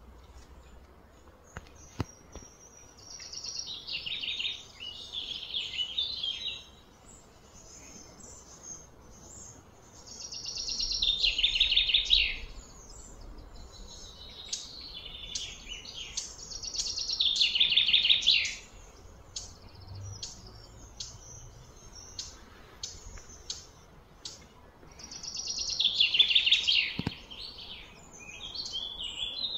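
A songbird singing: four loud phrases of fast, high chirps, each two to three seconds long, with softer scattered chirps between them.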